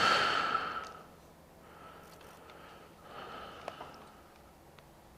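A person exhaling heavily through the nose, a loud sigh at the start and a second, weaker breath about three seconds in, with a few light clicks near the end.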